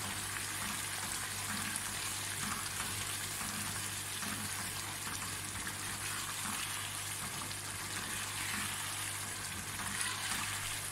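Beef achar gosht gravy sizzling steadily in a karahi on the stove while it is stirred with a silicone spatula.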